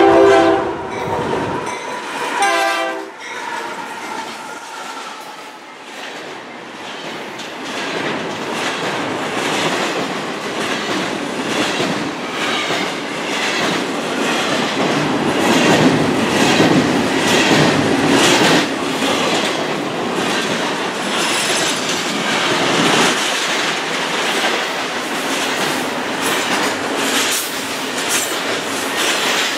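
A diesel locomotive's horn sounds a chord, cutting off about a second and a half in, with a second short blast a second later. A train then passes close by, its wheels clicking rhythmically over the rail joints.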